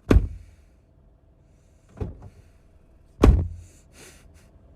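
Car door slammed shut hard: a heavy thud right at the start, a lighter knock about two seconds in, and another heavy slam a little over three seconds in.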